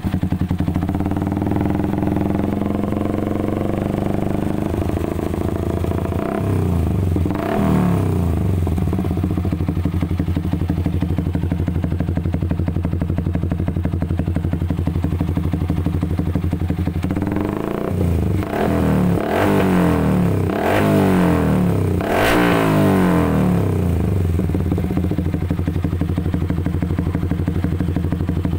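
Yamaha Vixion's single-cylinder four-stroke engine idling through a KOU aftermarket exhaust, with light throttle blips: one rev about seven seconds in and a run of several quick blips between about 17 and 23 seconds, each dropping back to a steady idle.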